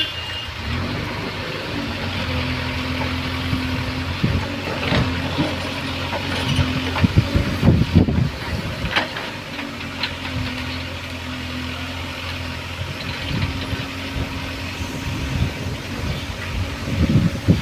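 Diesel engine of a loading machine running steadily at a low pitch, with irregular knocks and clatter about halfway through.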